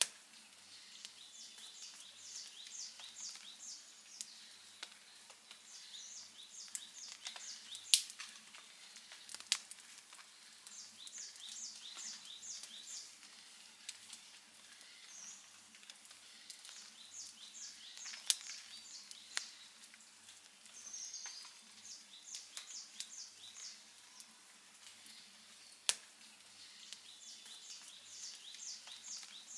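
Outdoor campfire crackling softly, with a few sharp, loud pops. Over it, short runs of high chirps repeat every few seconds.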